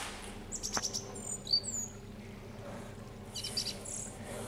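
Quiet birdsong: short high chirps and a few quick falling whistles, with a second run of chirps near the end, over a steady low hum. A single click comes about a second in.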